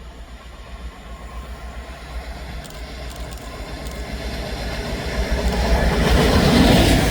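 A train approaching, its rumble growing steadily louder and peaking near the end as it comes close, with a few clicks from the wheels on the track partway through.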